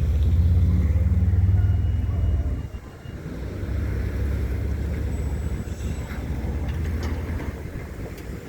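Union Pacific train rolling past with a low rumble that dips sharply about two and a half seconds in, then picks up again, a little quieter.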